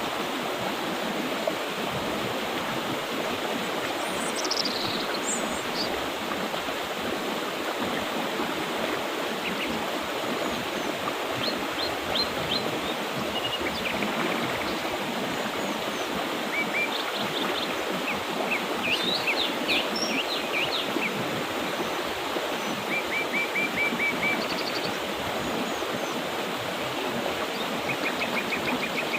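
Mountain river rushing steadily, with small birds chirping over it at intervals: a falling call about four seconds in and, later, short rapid runs of repeated notes.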